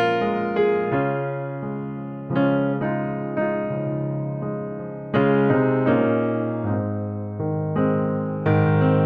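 Slow keyboard music, a piano-like instrument playing chords and notes, each struck and left to fade, a new one about every second or two.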